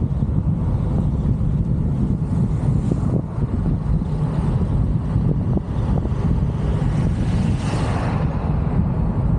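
Steady low rumble of a moving road vehicle with wind buffeting the microphone, and a brief swell of hiss about eight seconds in.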